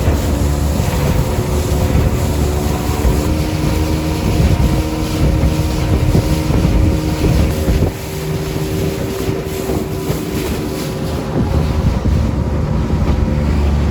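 A Gladiator 9.9 hp outboard motor pushing a small boat along at speed, with a steady engine drone that dips briefly about eight seconds in. Wind buffets the microphone throughout.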